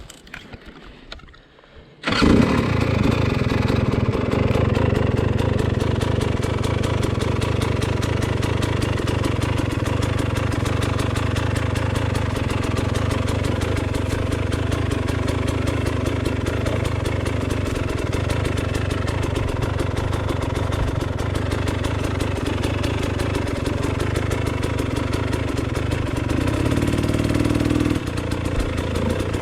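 KTM 300 XC-W two-stroke dirt bike engine starting abruptly about two seconds in, then idling steadily, with a short rise in engine speed near the end.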